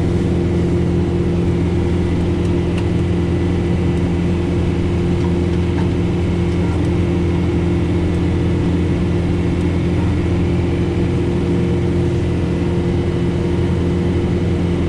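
John Deere 4066R compact tractor's diesel engine running steadily under load while powering a Frontier SB1174 snowblower through heavy wet snow: a constant hum with no change in pitch.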